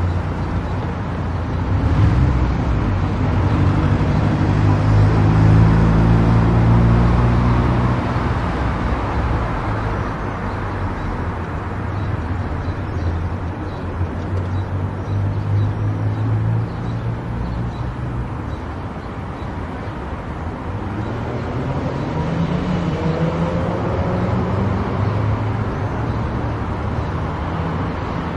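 Car driving at highway speed: steady tyre and road noise with the engine's low hum underneath, the engine note rising in pitch about three-quarters of the way through.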